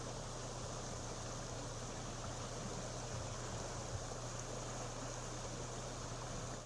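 Steady rushing of a creek in flash flood, fast high water, with a steady low hum underneath.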